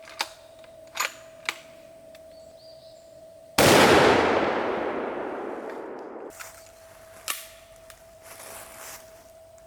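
A single gunshot fired close by, loud and sudden, its echo dying away over about two and a half seconds. A few sharp clicks come before it and one more a few seconds after.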